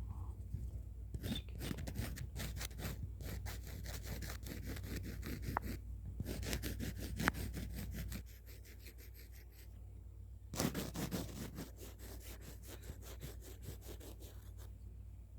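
Pencil sketching in quick, scratchy back-and-forth strokes. The strokes ease off about eight seconds in and start again about ten and a half seconds in.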